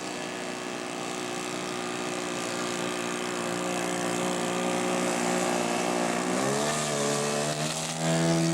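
Quarter-scale radio-controlled model airplane engine running steadily at low throttle. The pitch drops a little about six seconds in, then rises sharply near the end as the throttle is opened.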